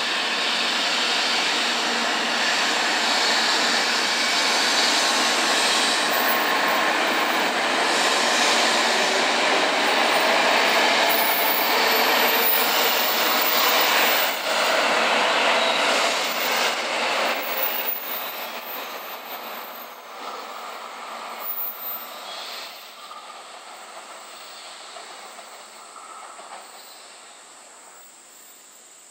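N700 series Shinkansen train accelerating away from the platform, its wheels and motors running loudly with a faint whine that rises in pitch. From about 18 s in, the sound fades steadily as the train draws into the distance.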